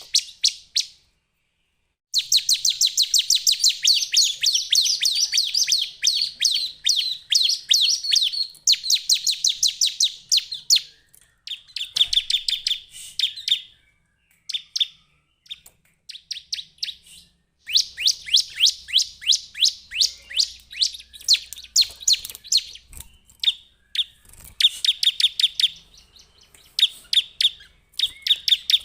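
Bar-winged prinia (Javan 'ciblek') singing: long, fast runs of sharp, high chirping notes, each run lasting several seconds, with short pauses between runs.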